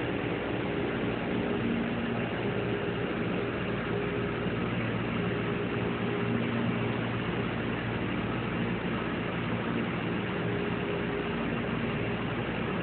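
Steady mechanical hum with a few faint steady tones over an even hiss: the background drone of an aquarium viewing hall.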